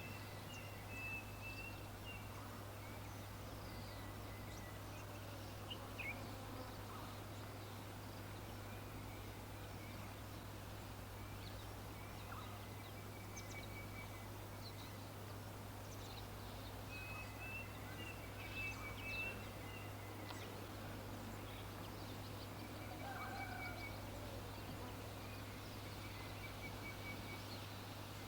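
Faint bird calls: short series of rapid high chirps that come and go again and again, over a steady low hum and background noise.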